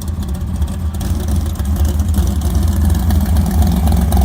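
A muscle car's V8 engine idling, a steady low rumble that grows a little louder about halfway through.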